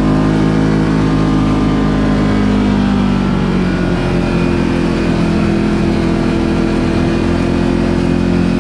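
Side-by-side UTV engine running under way at a fairly steady speed. The pitch eases down a little about a third of the way in, then holds.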